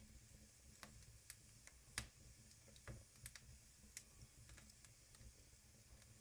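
Faint, irregular crackling and popping of a wood fire in a fireplace, with single sharp cracks every second or so.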